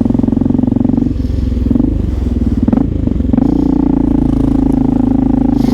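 Honda XR650L's single-cylinder four-stroke engine running under way through an aftermarket exhaust, a steady deep rumble. The revs drop and pick up again twice, about a second in and near the middle, then hold steady.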